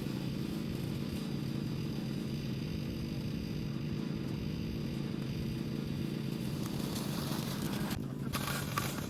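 Lawn mower running steadily with a low, even hum, with a brief break about eight seconds in.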